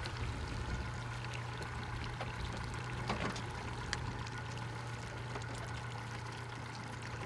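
River boat's motor running steadily at low speed, a low hum, with water washing and splashing along the hull.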